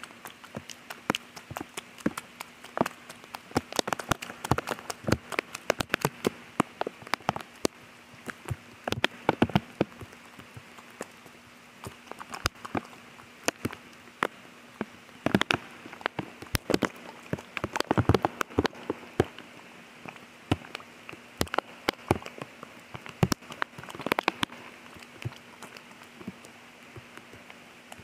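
Rain falling, heard as a light hiss with many irregular sharp drop hits close by, some much louder than others.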